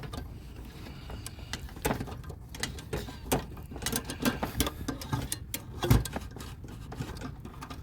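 Irregular metal clicks, knocks and scraping as the damaged part with bent tabs is worked out of a stripped-down Kenmore washing machine, with one louder knock about six seconds in.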